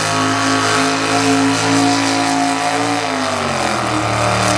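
Two-wheel-drive super stock pulling truck, an '82 Ford Ranger, its engine running loud at high, steady revs on the sled pull. About three seconds in the revs fall away and settle lower.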